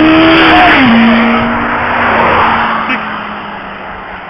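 A motor vehicle passing close by: its engine tone drops in pitch as it goes past, about a second in, and the sound then fades away.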